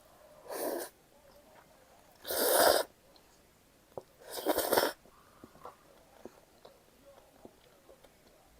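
Three short slurps of cold buckwheat noodles or their broth, the middle one the loudest, with faint small mouth and utensil clicks between.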